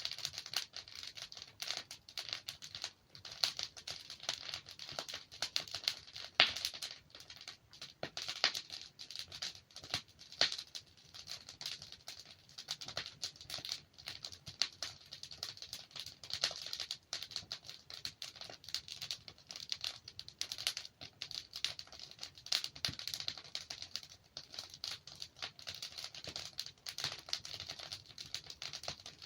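Burning logs in a fireplace crackling steadily, a dense run of small irregular snaps with a few louder pops.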